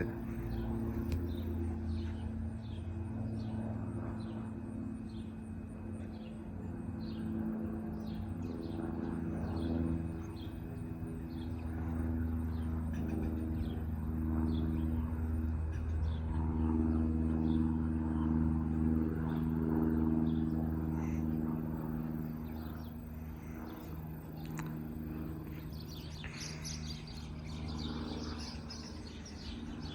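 Propeller light aircraft flying overhead, its piston engine droning steadily and swelling then fading as it passes. A bird chirps over it about once or twice a second, with more chirping near the end.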